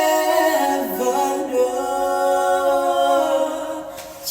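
Unaccompanied voices singing a worship song a cappella in harmony, holding long notes that shift pitch about a second in and fade near the end.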